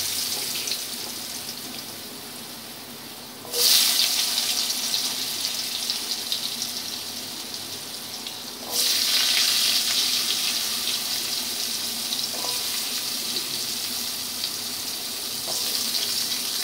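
Cubed potatoes dropped into hot mustard oil in a kadai, frying with a loud sizzle. The sizzle flares up sharply as fresh handfuls go in, about three and a half and nine seconds in and a little again near the end, and dies down slowly after each.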